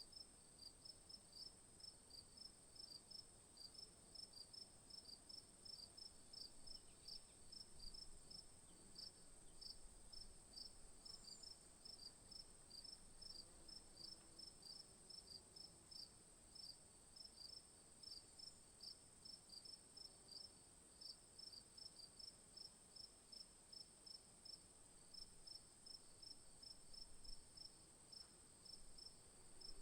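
Faint insect chorus: a steady high-pitched hum with regular short chirps, about two to three a second, throughout.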